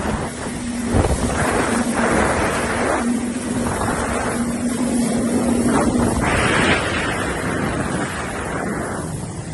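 Jet ski engine running at a steady pitch, with surging washes of wind and water spray noise over the microphone.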